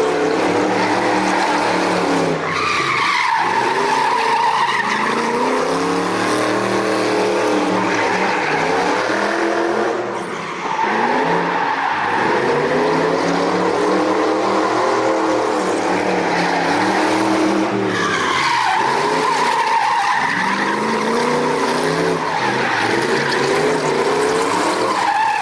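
V8-swapped BMW E46 drift car with a straight-pipe exhaust, its engine revving up and falling back again and again through the slides while the tyres squeal. There is a short lift off the throttle about ten seconds in.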